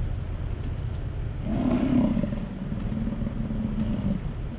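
Idling vehicle engine with a steady low rumble. About a second and a half in, a louder, rough low sound rises and holds as a steady drone for about two and a half seconds before dropping away.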